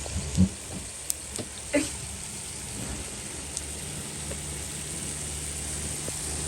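Food sizzling in a cooking pan, a steady hiss, with a few knocks and clinks of utensils in the first two seconds.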